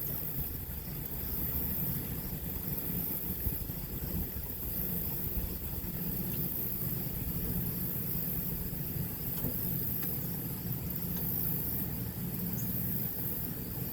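A steady low mechanical hum, like an engine idling, with insects chirping in a fast, even pulse.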